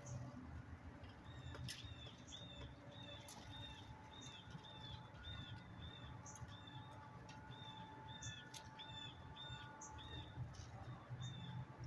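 Faint, repeated bird chirping: short, identical notes about three a second, kept up steadily, over a low background rumble.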